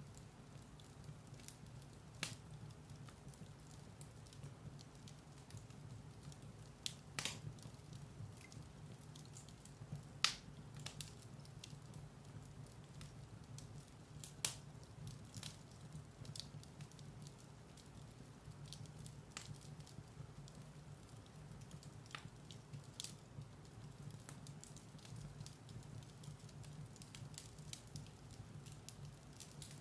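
Firewood burning in a fireplace: quiet crackling with a few scattered sharp pops, the loudest about a third of the way in, over a low steady hum.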